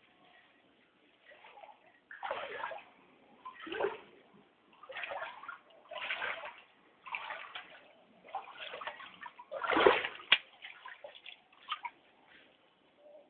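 Floodwater sloshing and splashing in a run of surges about one a second, the loudest about ten seconds in.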